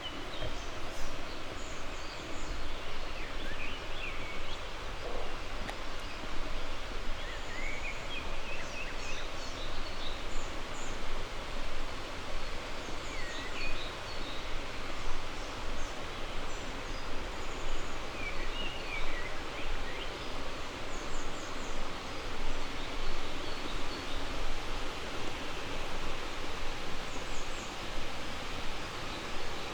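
Small birds chirping and calling on and off over a steady rush of flowing river water.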